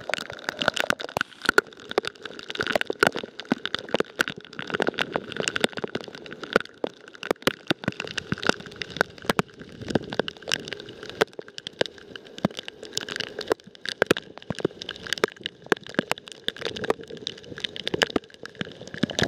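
Heavy rain on a boat deck, drops striking close to the microphone as many irregular sharp ticks.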